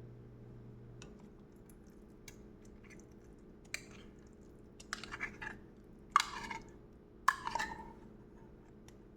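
Kitchen utensils and cookware being handled: a few light clicks, then three louder sharp knocks, each trailing off briefly.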